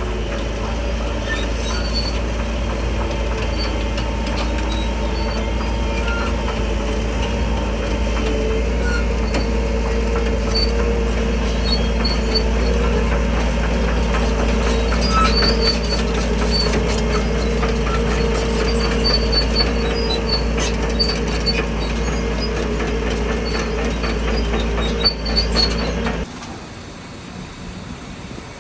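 Crawler bulldozer working: its diesel engine runs steadily under load while the steel tracks give off high squeaks and clinks. The sound drops off abruptly near the end to a quieter engine rumble.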